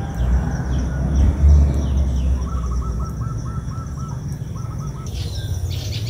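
Wild birds chirping, with a run of about eight quick repeated notes in the middle and a short second run just after, over a steady low rumble on the microphone.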